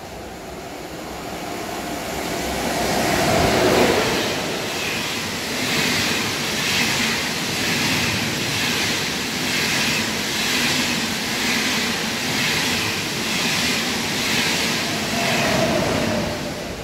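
ICE 1 high-speed train running through a station without stopping. Its rush swells for about four seconds as it arrives. Then the cars go by with a regular beat of wheels over the rail joints, about once a second, until the sound cuts off suddenly near the end.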